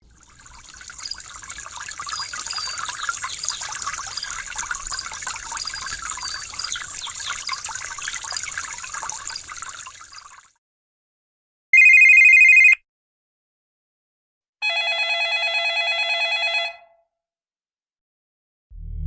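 Three separate sound effects in a row. First, about ten seconds of crackling hiss that fades out. Then a single loud, high, one-second beep, and a moment later a two-second buzzing electronic tone with a fast flutter, like a telephone ring.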